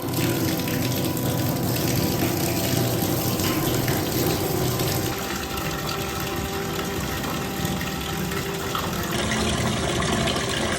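Water running steadily, starting suddenly and going on without a break.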